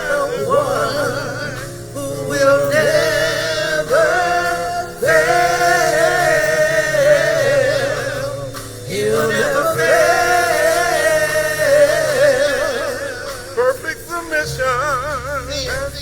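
Gospel singing by a choir and voices over an organ or keyboard accompaniment, with long held, wavering notes in phrases a few seconds long.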